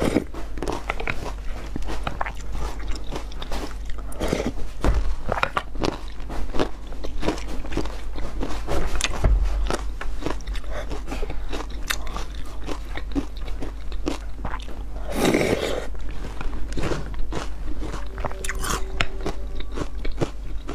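Close-miked chewing of yogurt with granola and fruit: a steady run of crisp crunches as the oat granola is bitten and chewed.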